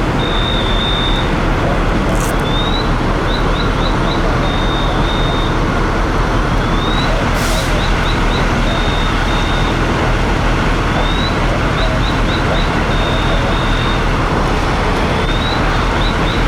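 Steady loud rumbling and rushing of running fire-truck engines, with a high electronic alarm cycling about every four seconds: a rising sweep, a quick run of chirps, then two held beeps.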